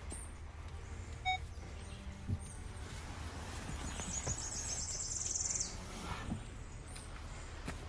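A bird's rapid, high trill, about a second and a half long, starting about four seconds in, over a steady low background noise. A few dull knocks and scrapes come from a heavy old wooden chest being pushed across wet sand.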